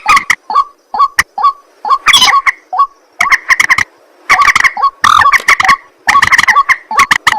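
Waterhens (ruak-ruak) calling: loud, harsh, repeated croaking notes. Single notes at first, then dense bouts of rapid notes about a second long with short gaps between.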